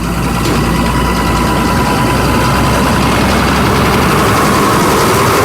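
Yard truck's engine running steadily at idle, a constant low drone.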